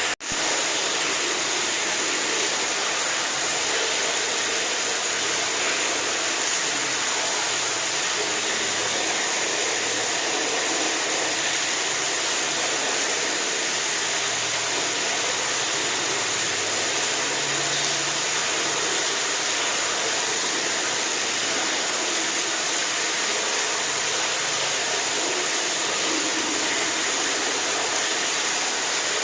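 Steady rushing water, a dense even hiss with no separate splashes or drips, cutting out for an instant at the very start.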